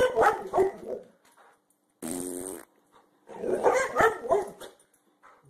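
A dog barking and growling in three agitated bouts. The last bout is the longest.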